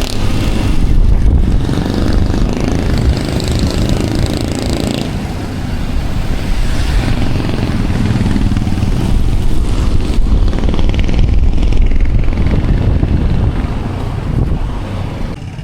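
Motorcycle riding along, its engine mixed with road noise and a heavy, uneven low rumble of wind on the microphone.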